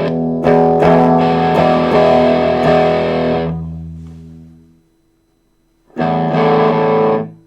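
Electric guitar chords played through a Behringer Vintage Tube Overdrive pedal with its drive and level at maximum, giving an overdriven tone. A few strums ring out and fade away, then after a short pause one more chord is struck and cut off abruptly near the end.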